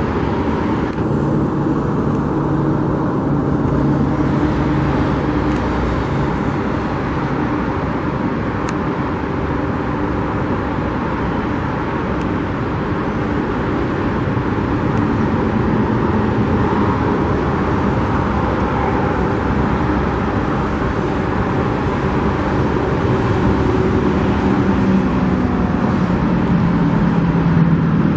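Steady road-vehicle noise: engines and tyres running on a road, with a faint low engine hum.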